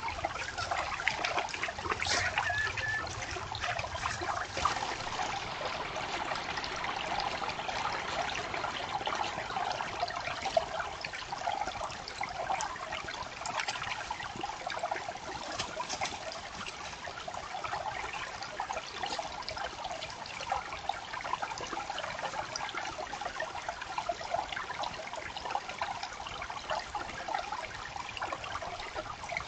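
Creek water trickling steadily.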